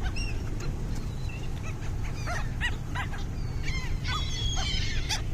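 A flock of water birds calling in many short, overlapping squawks as they crowd in for thrown bread, over a steady low rumble.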